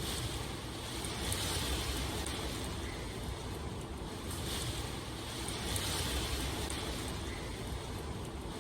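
Steady rain, an even hiss over a low rumble that swells and eases every couple of seconds.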